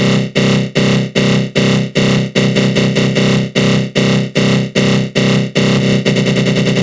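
Synthesized 'attack growl' sound effect: a harsh, buzzing synth tone from FL Studio Mobile's GMS synth, swept by a flanger. It pulses about two and a half times a second, then turns to a faster flutter near the end.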